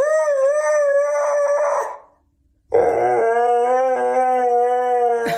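A dog howling: two long drawn-out howls with a short break between them, the first wavering up and down in pitch, the second held steadier.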